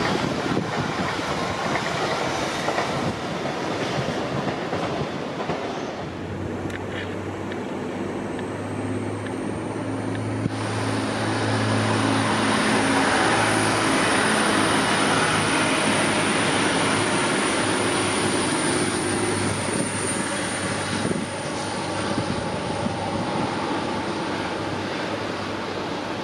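Passing trains. A TransPennine Express bi-mode unit runs by with a rushing rumble, then a Class 185 diesel multiple unit passes with a low diesel engine drone and wheels clattering over rail joints. A thin high whine sits over the wheel noise from about eight seconds in.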